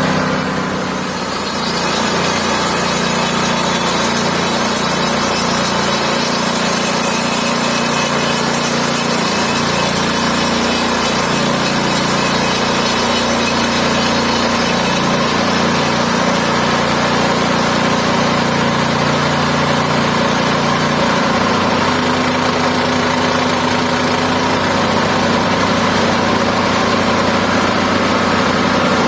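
Mobile band sawmill running steadily, its engine's drone holding level with a brief dip about a second in.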